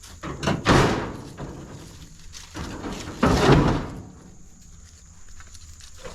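Two loud clattering crashes of scrap metal being dropped into a truck bed, one about a second in and a longer, louder one about three and a half seconds in.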